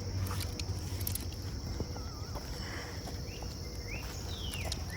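Outdoor morning ambience: a steady high insect drone over a low rumble, with short rising bird chirps starting about three seconds in.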